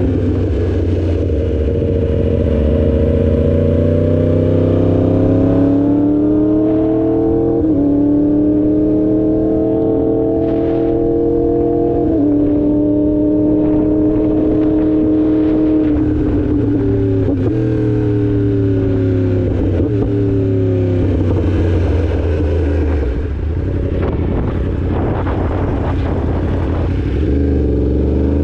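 Yamaha R1 sport bike's inline-four engine under way, its pitch rising and falling as it accelerates and slows, with several sudden drops in pitch at gear changes.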